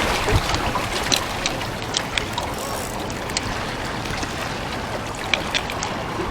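Water trickling and lapping as a steady wash, with many small, irregular clicks and ticks scattered through it.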